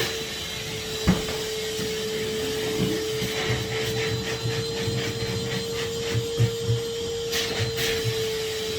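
Henry HVR200 620 W canister vacuum cleaner running steadily with an even motor whine while it cleans stairs, the nozzle knocking sharply against a step about a second in and bumping a few more times later.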